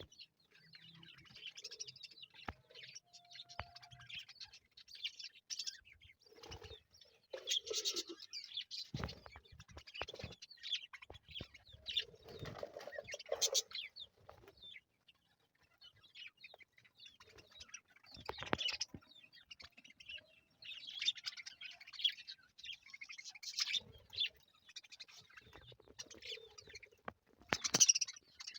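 Budgerigars chirping and chattering in short, scattered bursts, with wing flutters and several sharp clicks or knocks, the loudest near the end.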